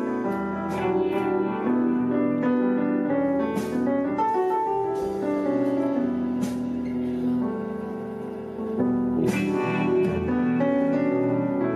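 Live band music led by sustained piano or keyboard chords, with occasional cymbal strikes ringing over them.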